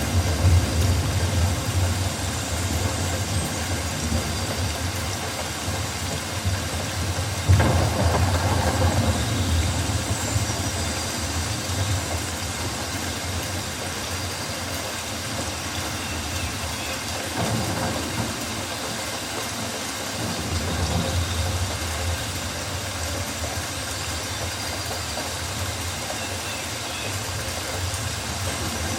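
Rainforest ambience: a steady low rumble under an even hiss, with faint high calls. A louder swell rises about seven and a half seconds in, and a weaker one near eighteen seconds.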